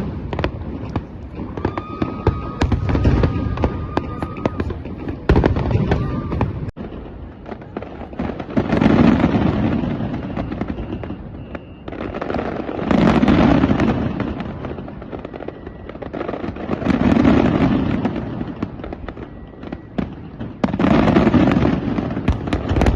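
New Year's Eve fireworks display: a quick run of sharp bangs and crackles with a held whistle, then from about eight seconds in, long swelling bursts that come back about every four seconds.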